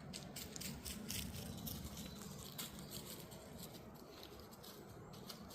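Small songbirds twittering: many quick, high chirps in close succession over a low background rumble.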